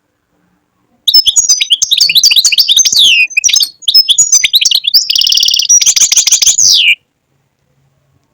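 European goldfinch singing: about six seconds of fast, twittering high notes with a buzzy trill near the end, broken by a short pause midway. The song starts about a second in.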